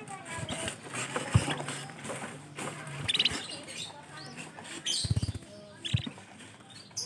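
Canaries chirping, with short high trills about three seconds in and again near six seconds. Scattered sharp knocks and rustles run through it, with a brief low rumble a little after five seconds.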